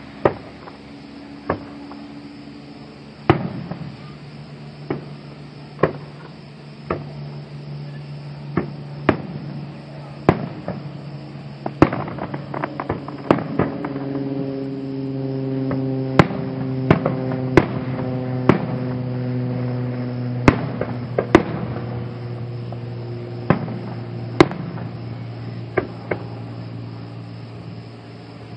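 Aerial fireworks shells bursting in a long irregular series of sharp bangs, a second or two apart at first and crowding together in the middle. A low steady hum runs under most of it.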